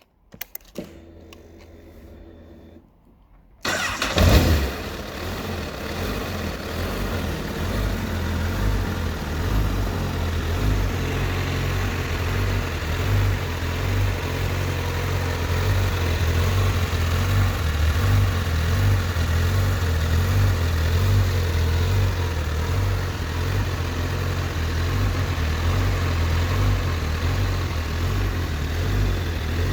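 Honda CBR1000RR Fireblade's 999 cc inline-four engine starting up about four seconds in, flaring briefly, then idling steadily.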